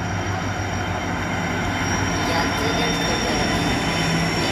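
A train at a railway station: a steady low rumble with a constant high-pitched whine over it.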